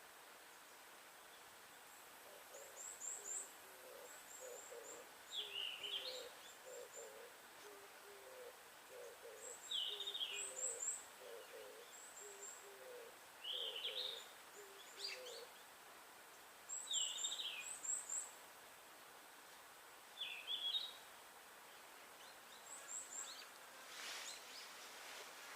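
Forest birds calling: a low hooting voice repeats short phrases of notes for the first half, while another bird gives short, sharp, falling chirps every few seconds and thin high notes sound above. There is a brief rustle near the end.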